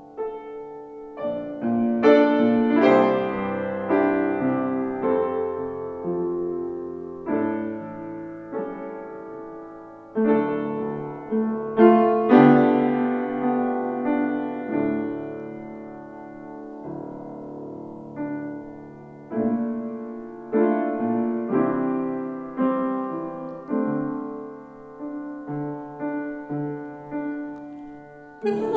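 Solo piano playing a slow, gentle passage of chords, each struck and left to ring and fade.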